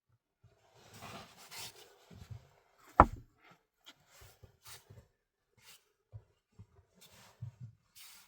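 Handling noises: scattered rustling and light knocks, with one sharp knock about three seconds in.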